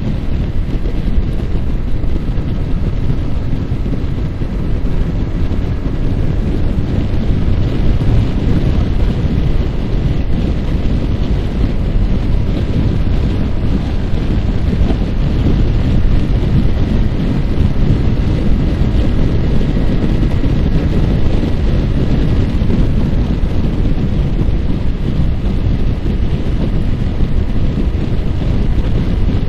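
Heavy, steady wind buffeting on the microphone of a moving Yamaha R15 motorcycle, with its single-cylinder engine running at a steady cruise underneath.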